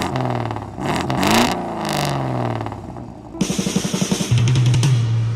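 Car engine revving, its pitch rising and falling several times, then settling into a fast, even pulsing run for the last two seconds.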